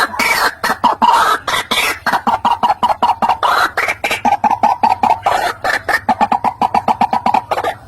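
White-breasted waterhen calling: harsh, rasping notes at first, then a fast, even run of short repeated notes, about six a second, as used in a lure call for trapping the bird.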